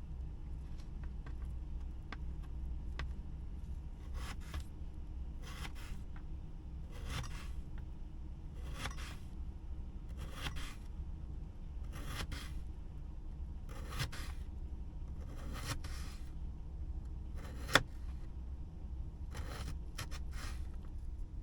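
Slow, regular scraping strokes, about one every second and a half, starting a few seconds in, over a steady low hum. One sharp click near the end stands out as the loudest sound.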